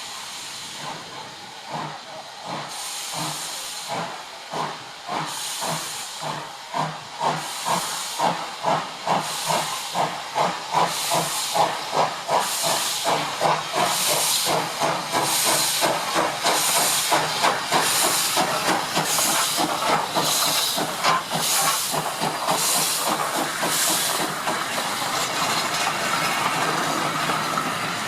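Steam locomotive working a train away, its exhaust beats coming faster and louder as it gathers speed, with a steady hiss of steam over them.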